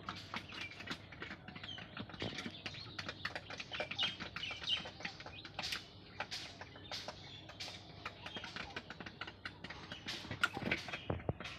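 Small birds moving about, making rapid irregular clicks and taps, with a few soft short chirps.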